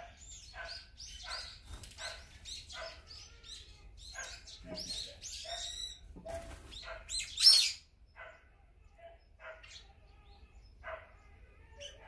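Several wild birds chirping and calling in quick, short notes. About seven and a half seconds in comes one loud call of quickly falling high notes, and the chirping is sparser after it.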